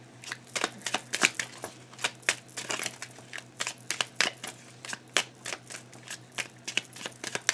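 Tarot cards being handled and shuffled: a quick, irregular run of crisp clicks and snaps of card stock.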